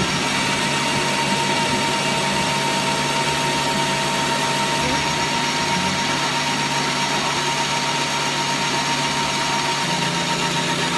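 A power tool's electric motor running steadily with a constant hum and whine.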